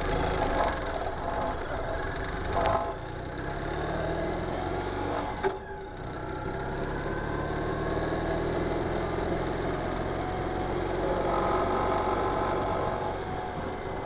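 Ural Retro sidecar motorcycle's air-cooled flat-twin engine pulling away and picking up speed, its note rising over the first few seconds. A short sharp click comes about five and a half seconds in, with a brief drop in the engine sound, and then it runs on steadily at road speed.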